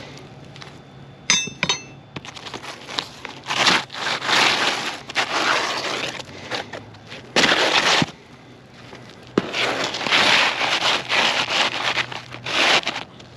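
Brittle asphalt roof shingles scraping and crackling as a tool is worked under them to pull the nails, in several long stretches, with a short metallic clink about a second in. The crackle comes from shingles too dry and stiff to bend.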